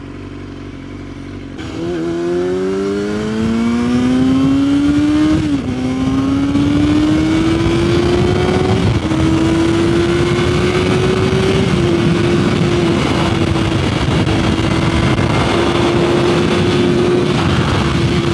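Yamaha R6's inline-four engine accelerating hard, its pitch climbing through the gears with three quick upshifts, then holding a steady high note at speed with wind rush.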